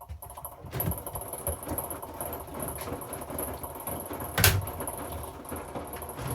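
Hoover washing machine running mid-cycle, a steady mechanical churn that picks up just under a second in, with one sharp knock about four and a half seconds in.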